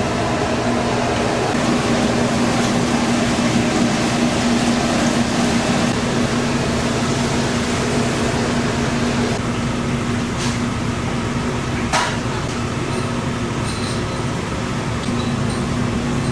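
Steady mechanical hum and rush of restaurant kitchen equipment, with a couple of light clinks and one sharper clank about twelve seconds in.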